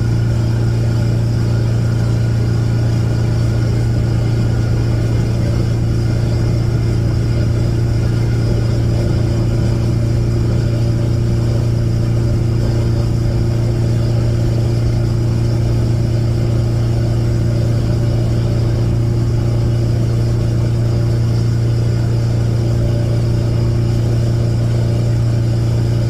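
Bayliner Capri boat's engine running at a steady speed, a constant low drone that holds one pitch throughout.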